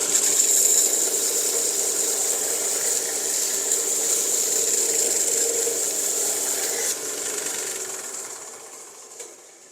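A knife blade being ground on a Tormek sharpener's turning wheel: a steady grinding hiss with a high whine, which fades away over the last couple of seconds.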